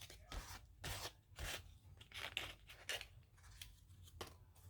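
Scissors cutting paper: several short snips at uneven intervals.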